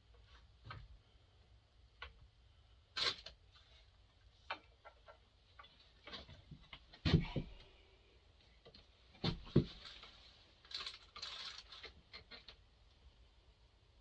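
Scattered clicks and knocks of chainsaw parts being handled and test-fitted, the two loudest knocks about 7 and 9.5 seconds in, with a brief scraping rustle just after.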